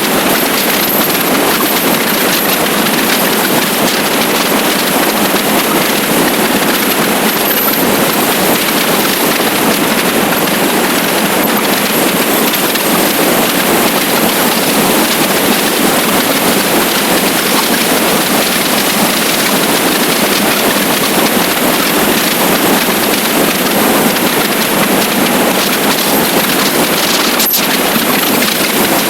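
Steady rush of wind and road noise on a moving motorcycle, with a short click near the end.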